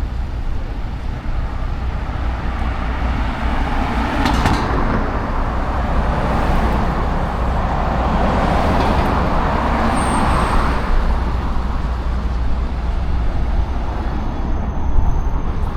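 City road traffic: a steady low rumble, with the noise of a vehicle passing that swells through the middle seconds and then fades.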